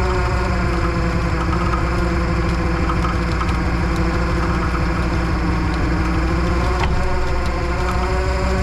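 Tow truck engine running steadily at idle, its pitch holding even, with a single short click about seven seconds in.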